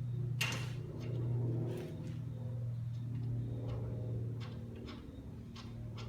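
Ratchet clicking in short strokes while driving the wheel hub assembly's rear mounting bolts, with a sharp click about half a second in. A steady low hum runs underneath.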